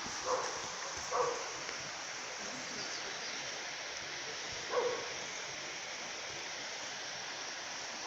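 A dog barking: short single barks, two in the first second and a half and one about five seconds in, over a steady rushing hiss.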